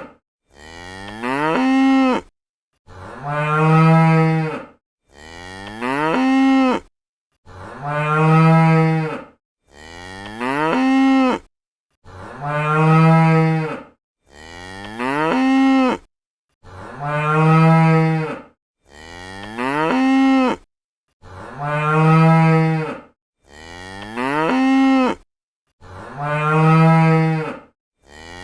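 Cow mooing over and over: two alternating moos, one low and steady, the other gliding up then down in pitch, each about two seconds long with short silent gaps between. The calls repeat identically, as a looped recording.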